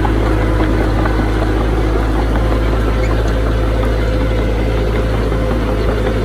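Heavy diesel engine of earthmoving machinery running steadily at an even speed, with a deep rumble and a constant hum above it.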